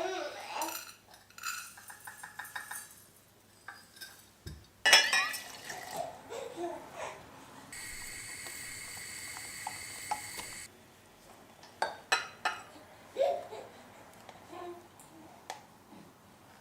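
Dishes and cutlery clinking and knocking in a kitchen, with one loud clank about five seconds in. A tap runs for about three seconds in the middle.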